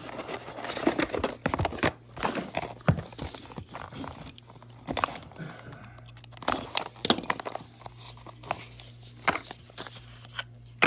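Foil trading-card pack wrappers tearing and crinkling, with cards rustling and clicking as they are handled, in a run of irregular short crackles over a steady low hum.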